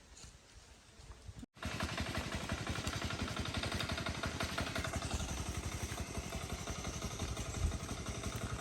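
A small engine running steadily with a fast, even pulse, starting abruptly about a second and a half in; before that, only faint knocks.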